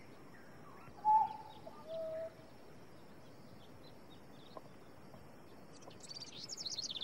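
Tropical rainforest ambience: a bird whistles two clear notes about a second apart, the first loud and the second lower. Faint high chirps run underneath, and near the end a fast, high trill starts up.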